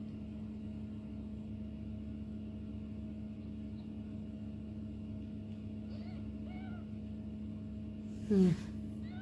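Kittens mewing faintly a few times past the middle, then one short, loud meow that falls in pitch near the end, over a steady low hum.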